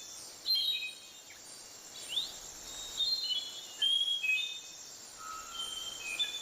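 Rainforest ambience: birds calling in repeated phrases of short, clear whistled notes that step down in pitch, with one rising note about two seconds in, over a steady high hiss of insects.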